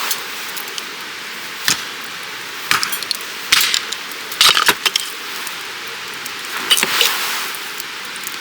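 Several light clinks and knocks, grouped in the middle of the clip and again near the end, over a steady rushing hiss.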